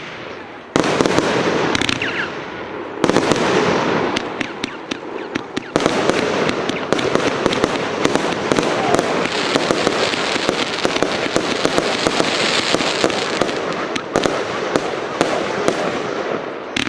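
A multi-shot firework battery firing: a rapid, continuous run of bangs and dense crackling.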